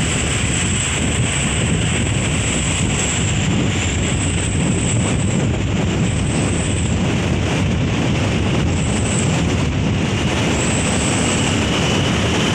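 Steady vehicle and road noise with wind rumbling on the microphone, unchanging throughout.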